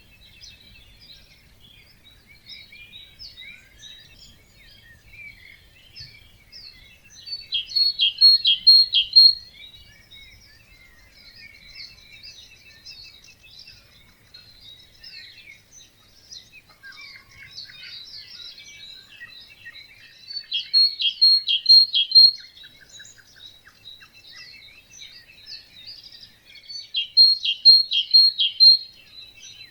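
Dawn chorus of many birds singing over one another. One louder bird repeats a short song phrase of four or five quick notes three times, about every six to seven seconds.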